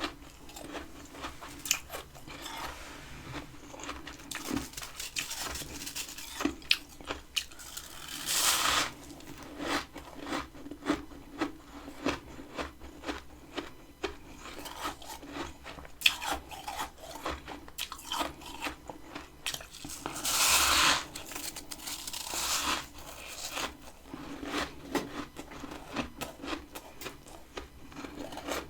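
Close-up crunching and chewing of freezer frost, a steady run of small crisp crackles, with two louder, longer crunches about a third of the way in and again about two-thirds of the way in.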